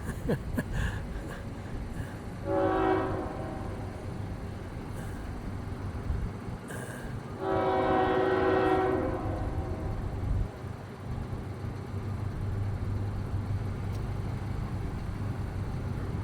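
Freight train locomotive horn: a short blast about three seconds in and a longer blast around eight seconds, as the train comes through at restricted speed. After the horn, the locomotive's engine runs with a steady low hum as it passes.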